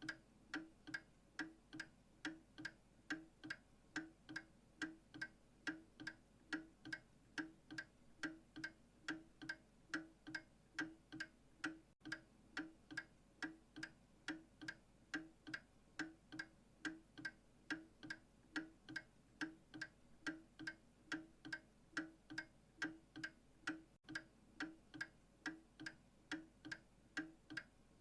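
A clock ticking steadily, about two even ticks a second.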